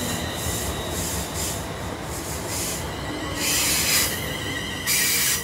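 London Northwestern Class 350 electric multiple unit running past along the platform, its wheels rumbling and clattering on the rails. Two loud hissing surges break in, about three and a half seconds in and again near the end.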